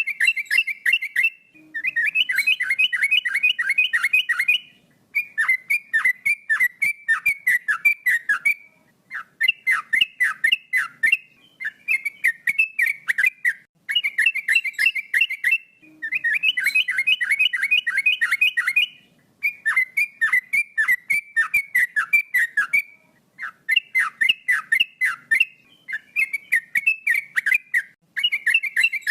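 Male yellow-vented bulbul (trucukan) singing in full, constant voice: phrases of rapid downward-sweeping notes, each one to three seconds long with short pauses between. The same run of phrases repeats about every 14 seconds.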